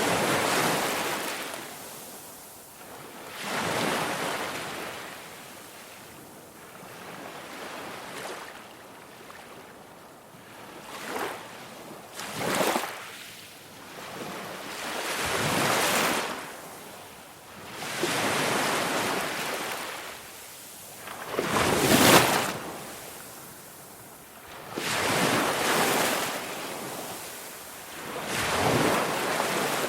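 Ocean waves washing onto a shore, one surge of surf every three to four seconds, swelling and fading away.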